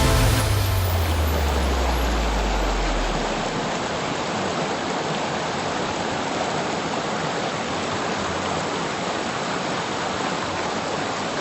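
Waterfall water rushing steadily, a constant even roar of falling water. Low music fades out during the first few seconds.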